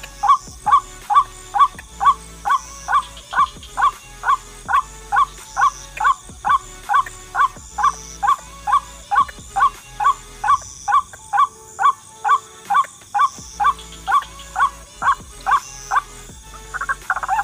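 Ruak-ruak (white-breasted waterhen) call, a loud, evenly spaced note repeated about two and a half times a second, stopping shortly before the end.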